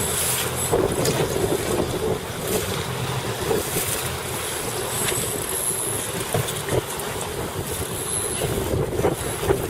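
Strong wind buffeting the microphone, with waves and water splashing around a boat.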